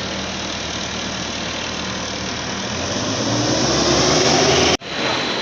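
John Deere engine of a side-boring machine running steadily, then picking up speed with a rising pitch near the end before the sound breaks off abruptly.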